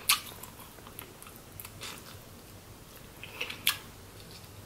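Close-miked chewing of crab and shrimp in butter sauce, with a few sharp wet mouth clicks and smacks; the loudest come just after the start and about three and a half seconds in.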